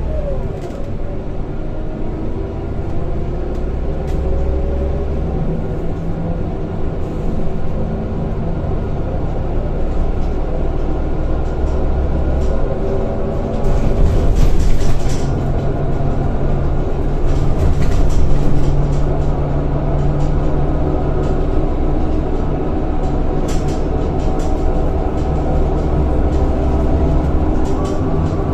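Interior sound of a Scania K230 single-deck bus on the move: steady engine rumble with whining tones from the ZF automatic gearbox that glide up and down in pitch as the bus pulls and changes speed. It gets louder with rattling about halfway through and again a little later.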